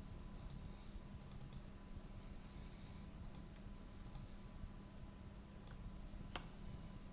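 Scattered quiet clicks of a computer mouse, some in quick pairs or clusters, over a faint steady electrical hum.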